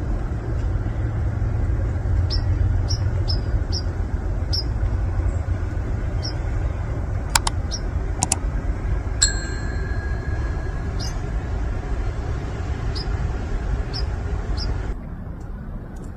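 A vehicle driving, heard as a steady low rumble that drops away near the end. Over it come scattered small ticks, two sharp knocks about seven and eight seconds in, and a short ringing ding about nine seconds in.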